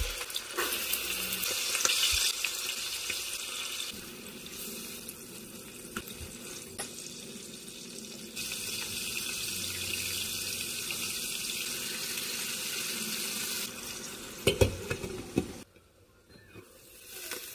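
Chicken breasts sizzling in oil in a frying pan, a steady hiss that shifts in level from take to take. A few clattering knocks come about fourteen and a half seconds in.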